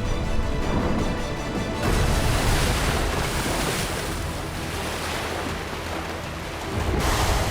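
Sea water rushing and surging, as of waves washing over, with a louder surge about two seconds in and another near the end, over background music.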